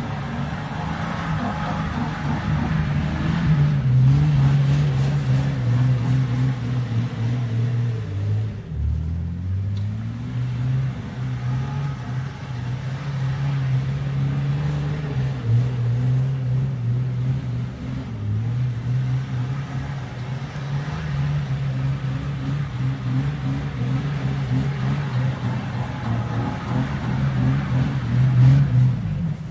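Jeep Wrangler TJ engine running hard as the Jeep spins doughnuts in the snow, the engine note holding fairly steady and wavering with the throttle. About nine seconds in, the revs drop sharply and then climb back up.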